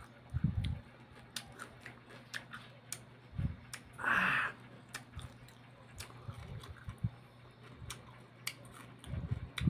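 A man chewing cucumber and banana with his mouth open, making many small wet clicks and smacks. About four seconds in there is a short breathy exhale.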